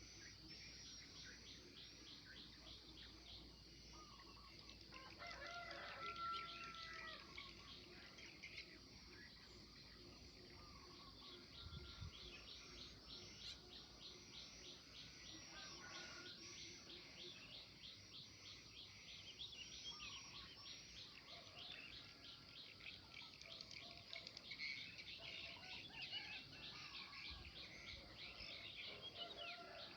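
Quiet birdsong: a rapid, high-pitched trill repeats almost continuously, with other lower bird calls coming in around six seconds in and again near the end.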